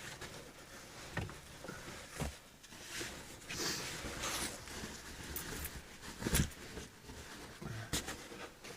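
Scattered small knocks and rustles from handling dishes and food while setting up to eat, with the sharpest knock about six and a half seconds in.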